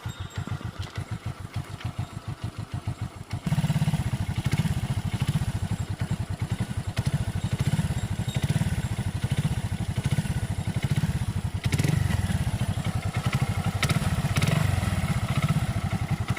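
Hero Super Splendor's single-cylinder engine idling through an aftermarket silencer, a steady, evenly pulsing exhaust beat. About three and a half seconds in the beat becomes louder.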